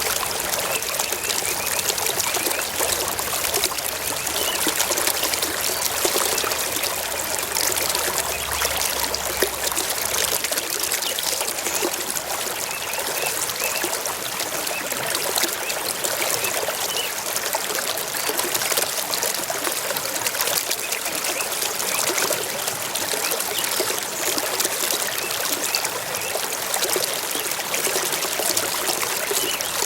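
Flowing water of a small stream trickling and babbling steadily.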